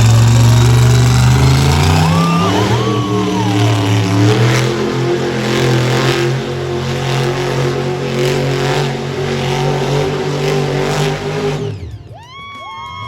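Monster truck engine running loud and revving, its pitch shifting up and down, then cutting off abruptly near the end. A steady high tone starts right after.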